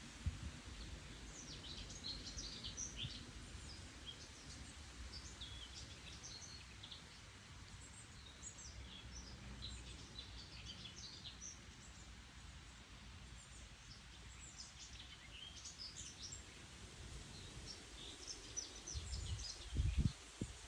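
Small birds chirping and twittering in quick, high notes scattered throughout, over a low steady rumble of outdoor ambience. A loud low thump comes near the end.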